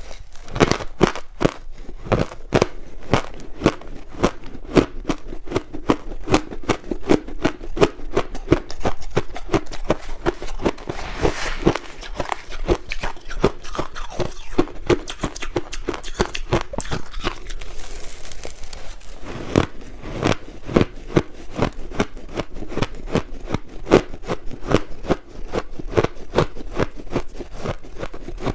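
Close-miked crunching of crushed ice being bitten and chewed, a fast, unbroken run of sharp crackling crunches.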